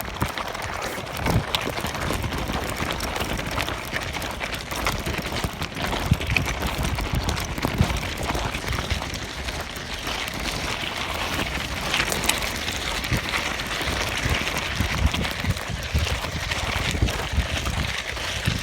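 Gusty wind buffeting the microphone: uneven low noise with frequent crackles.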